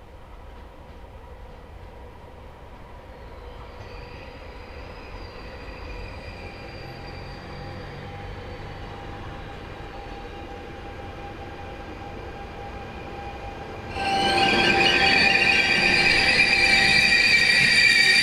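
Passenger train approaching and running into the station, growing slowly louder, with a high steady squeal setting in about four seconds in. Near the end it comes alongside and the sound jumps suddenly louder, dominated by a strong squeal of wheels on rail as it slows.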